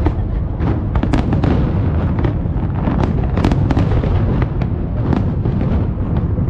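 Fireworks display: shell bursts going off one after another, several bangs a second over a continuous low rumble.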